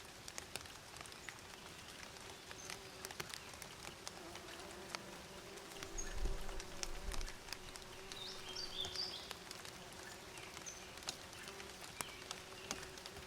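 Bees buzzing in a steady low hum, with scattered faint ticks. A bird gives a short cluster of high chirps about two thirds of the way in, and a brief low rumble comes a little before that.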